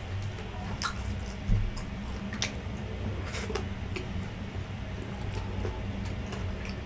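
A person chewing food close to the microphone: scattered soft wet clicks and smacks from the mouth, over a steady low hum.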